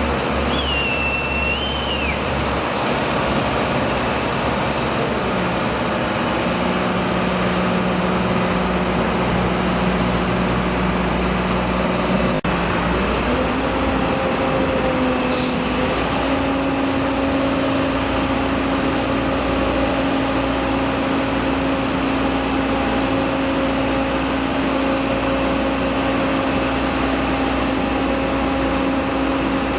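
A large engine running steadily under a constant wash of noise. Its pitch drops about five seconds in and rises again around twelve seconds, as the engine speed changes. There is a short high squeal near the start.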